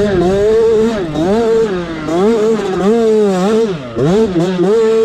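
Motocross bike engine revving up and down again and again as it is ridden hard, its pitch rising and falling about once a second, with a deep drop about four seconds in.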